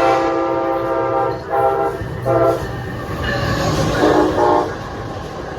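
Amtrak Auto Train locomotive horn blowing as the train passes at speed: a long blast that ends about a second and a half in, two short blasts, then another blast around four seconds in that sounds lower in pitch. The noise of the train running on the rails goes on underneath and after.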